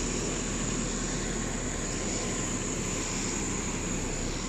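Steady low rumble of background noise with a constant high-pitched whine, without distinct events.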